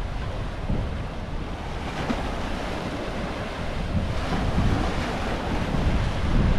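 Ocean surf washing and breaking, with wind buffeting the microphone in a low rumble; the waves swell louder over the last couple of seconds.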